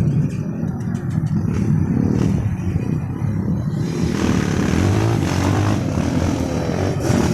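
Trail motorcycle engine running under load. About four seconds in, the sound grows fuller and a steady low drone sets in.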